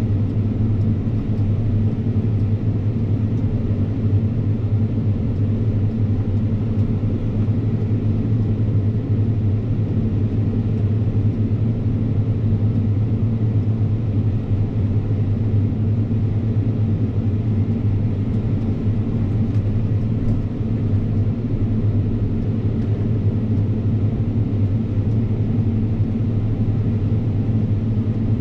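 Fendt 724 tractor running steadily under load while driving Pöttinger front and Krone butterfly disc mowers through grass: a constant low drone.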